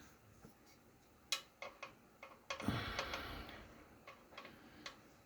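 Small metal clicks and taps with a short stretch of scraping a little past halfway: an Allen wrench prying at a pellet-grill igniter that has jammed in its holder.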